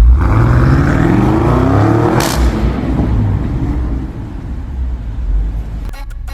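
BMW M850i's twin-turbo V8 through a Brillante variable valve exhaust, accelerating hard from a start with its note climbing. There is a short sharp crack about two seconds in, the pitch climbs again, and then it eases off and quietens.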